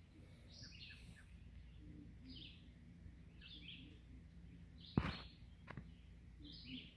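A bird calling in the background: short two-part notes stepping down in pitch, repeated every second or so. About five seconds in there is one sharp knock, the loudest sound, and a smaller one just after.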